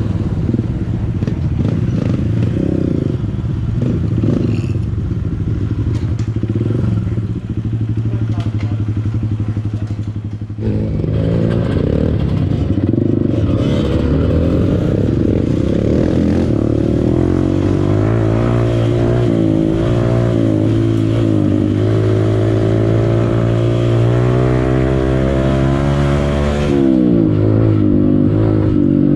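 Honda CRF150L single-cylinder four-stroke dirt bike engine running at low revs. About ten seconds in it picks up, then its pitch climbs and falls in steps as it is ridden through the gears, dropping sharply near the end.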